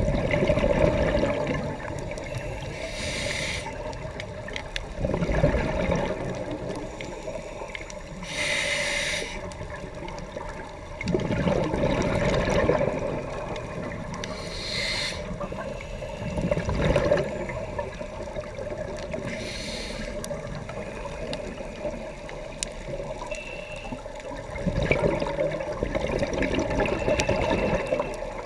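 Scuba diver breathing through a regulator underwater. A short hissing inhale comes about every five to six seconds, and between them bursts of exhaled bubbles gurgle out of the regulator.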